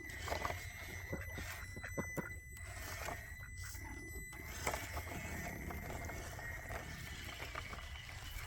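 Traxxas TRX-4M scale RC crawler working over rock, with a steady high-pitched electric motor whine and scattered clicks and scrapes of the tires and chassis on the rock.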